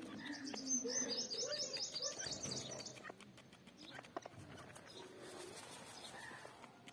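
Birds calling: a fast run of high chirps for about the first three seconds over lower, wavering calls, then quieter scattered chirps and clicks.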